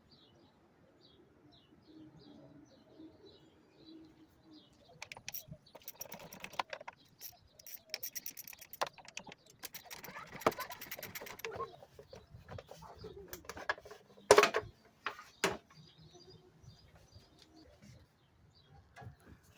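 Scattered clicks, knocks and rustling of plastic engine-bay parts being unfastened and pulled off by hand to get at the air intake hose, the loudest a sharp click near the end. Birds chirp faintly at the start and end.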